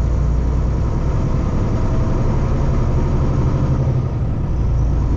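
Steady drone of a Kenworth T680 semi truck's diesel engine and road noise, heard inside the cab while cruising.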